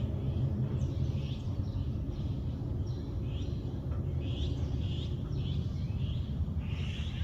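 Wild birds chirping in short calls, one after another, over a steady low rumble.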